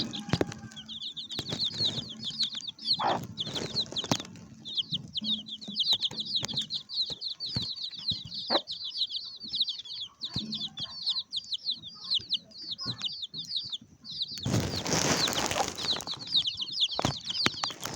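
A flock of birds chirping rapidly and continuously in high, quick notes, with scattered knocks, then a loud burst of rustling, flapping-like noise near the end.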